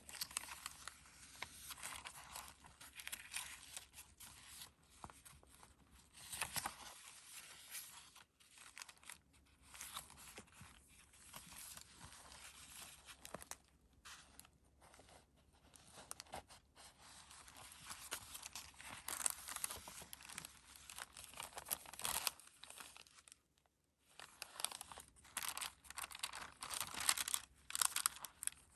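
Paper pages of a handmade junk journal being turned and handled, rustling and crinkling in irregular bursts with a couple of short pauses.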